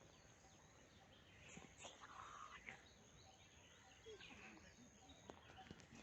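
Faint outdoor ambience with scattered distant bird calls and chirps.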